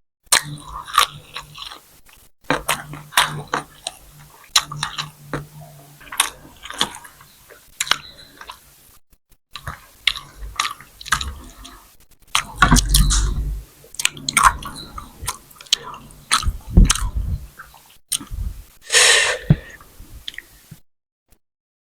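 Close-miked eating sounds of grilled chicken and flatbread being chewed: irregular wet smacks and clicks of the mouth, with a heavier, lower stretch of chewing and food handling about halfway through and a short breathy rush near the end.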